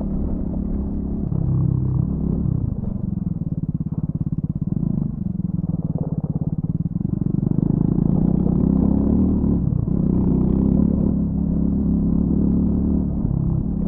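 Triumph Scrambler 400X's single-cylinder engine through its stock exhaust, running at low revs with an even pulsing for a few seconds, then opened up and pulling harder from about seven seconds in, with a brief drop near ten seconds.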